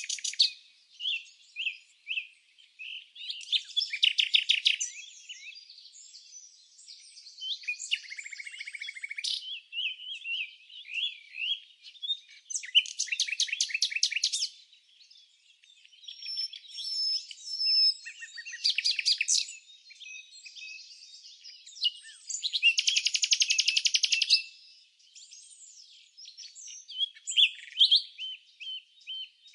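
Songbirds chirping: rapid, buzzy trills about a second long come every four to five seconds, with short chirps and whistled notes in between.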